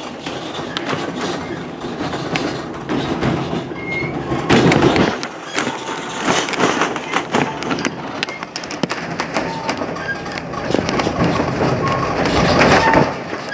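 Narrow-gauge passenger train rolling along the track, heard from aboard: a steady rumble with many irregular clacks and knocks from the wheels and cars, and a few brief faint high squeaks.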